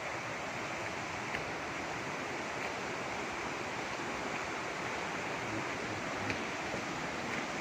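Steady rush of flowing water, with a few faint short ticks over it.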